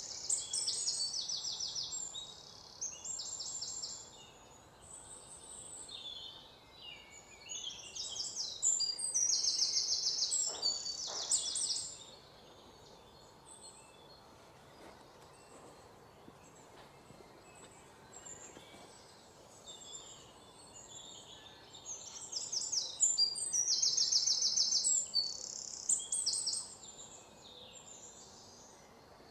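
Birds chirping in bouts of rapid, high trills lasting a few seconds each, with quieter gaps between.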